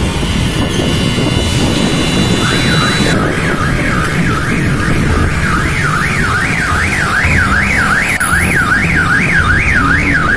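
An electronic alarm siren warbling up and down about twice a second, starting a couple of seconds in, over a steady low rumble of traffic and wind.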